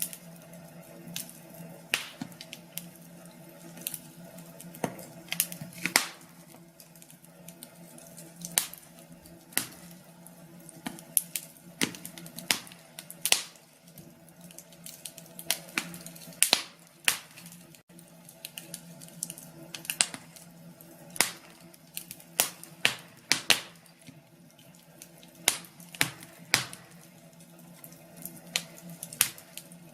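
Wood fire in a fireplace crackling, with irregular sharp pops, several louder than the rest, over a soft steady hum.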